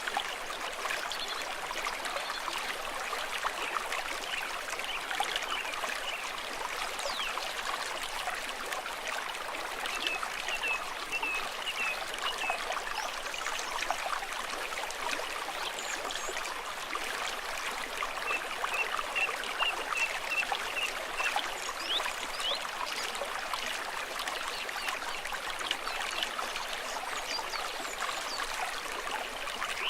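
Shallow stream trickling and babbling steadily over stones. Short runs of quick high chirps come through about ten seconds in and again near twenty seconds.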